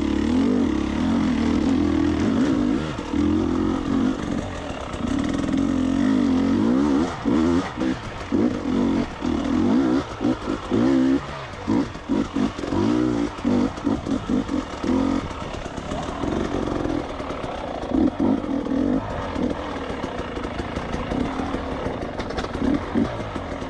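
Dirt bike engine running under a trail rider, its pitch rising and falling as the throttle is worked. From about seven seconds in the revs come in short, rapid blips, the throttle snapped open and shut over rough ground.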